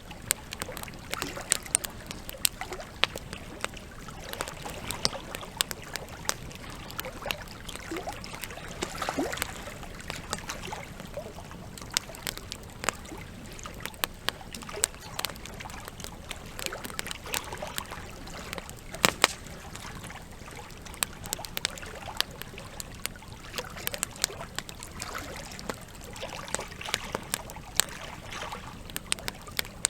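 Wood campfire crackling, with many sharp, irregular pops and snaps from the burning logs over a steady background of trickling water.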